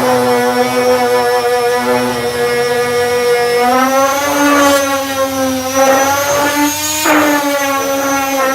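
Electric sander fitted with 240-grit discs running steadily on body filler. Its whine holds one pitch, lifts slightly about halfway through and wavers near the end.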